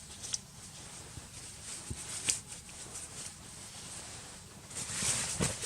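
Faint rustling and scattered light knocks of camping gear being handled while packing up, with a louder stretch of rustling near the end.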